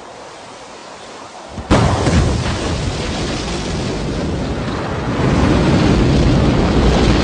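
Rocket engines igniting at launch: a steady hiss breaks about two seconds in into a sudden loud, continuous rumbling roar, which grows louder again about five seconds in.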